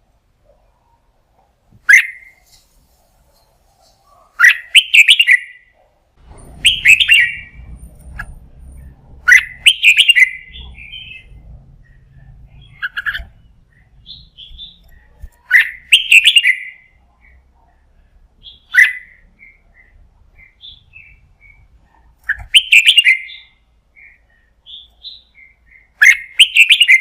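Red-whiskered bulbul singing short, loud whistled phrases, one every two to three seconds.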